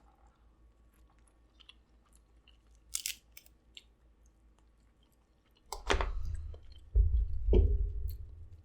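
Close-miked eating of snow crab legs: a sharp shell crackle about three seconds in, then chewing and crunching with low thumps from about six seconds in.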